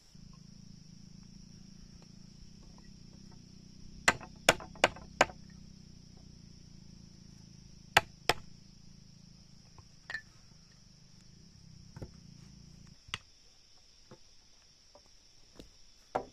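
Hammer blows on wood: a run of four quick strikes, then two more, then single knocks spaced out. Under them a low hum stops about two-thirds of the way through, and a steady high insect drone runs throughout.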